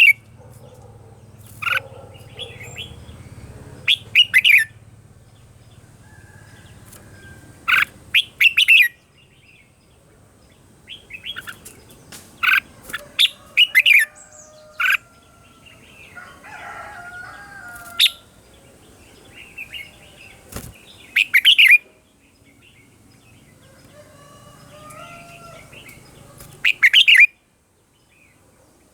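Red-whiskered bulbul singing: loud, quick clusters of sharp whistled notes every few seconds, with softer warbling phrases between them.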